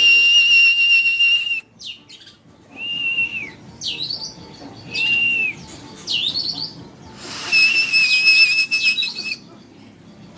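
Oriental magpie-robin (kacer) singing loud clear whistles. It opens with a long steady note, then gives short down-slurred whistles and quick rising phrases, and holds another long, slightly wavering note about seven and a half seconds in.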